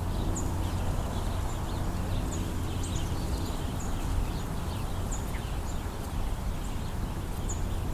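Short, high bird chirps every second or two over a steady low rumble.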